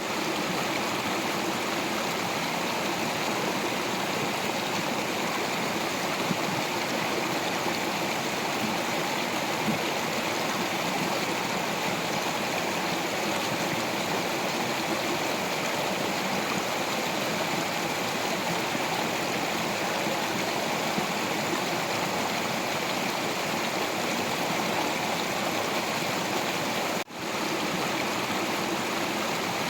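Stream water flowing over rocks in a steady, unbroken rush, with a momentary dip in sound about 27 seconds in.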